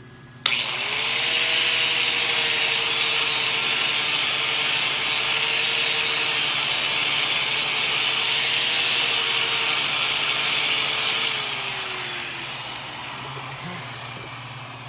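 Angle grinder grinding steel: it starts abruptly about half a second in, runs with a steady motor whine under a loud hiss for about eleven seconds, then is lifted off and its motor winds down with a falling whine.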